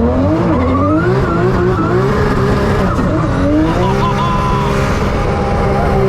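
Drift car's engine revving hard, its pitch rising and falling with the throttle, while the tyres squeal as the car slides sideways.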